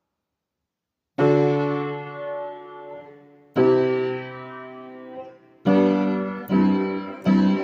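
Electric piano chords opening a slow song: after about a second of silence, five chords are struck, each left to ring and fade, the last three coming quicker.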